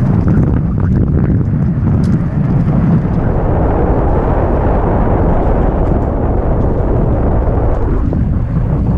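Wind rushing over the microphone and the rattle of a downhill mountain bike riding fast over rocky trail, with a few sharp knocks in the first seconds.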